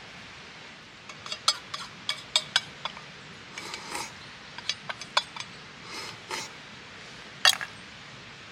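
Small hard objects clinking and knocking as they are handled: a quick run of sharp clicks early, a few short scrapes, and one louder click near the end, over a steady background hiss.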